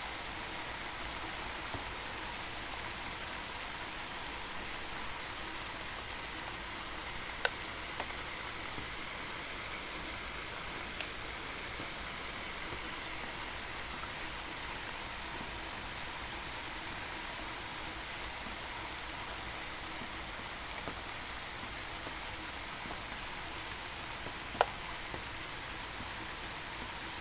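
Steady rain falling, an even hiss, with a few sharp taps standing out, the loudest about 24 seconds in.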